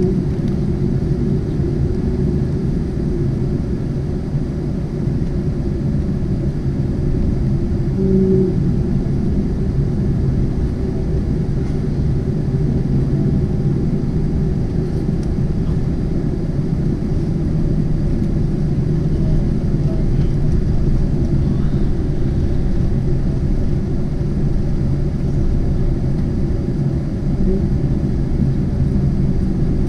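Boeing 747-8 airliner heard from inside the cabin: a steady low rumble with a few low hums, and a short extra hum about eight seconds in.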